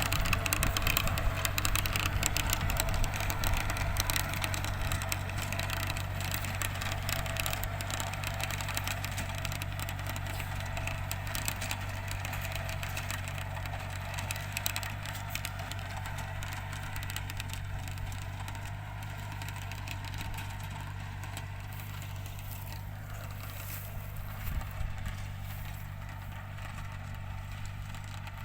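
Tractor engine running steadily with a crackling noise over it, gradually growing quieter.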